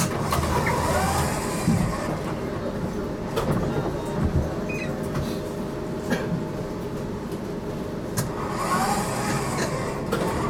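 Interior running noise of an HTM GTL8 tram: a steady low rumble with a few sharp clicks, and two stretches of higher hiss near the start and near the end.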